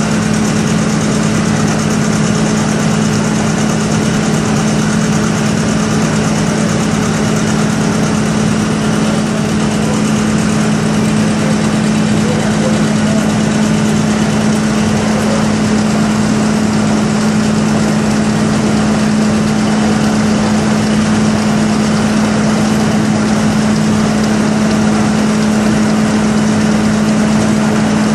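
An engine running steadily at idle, a loud, even hum that does not change.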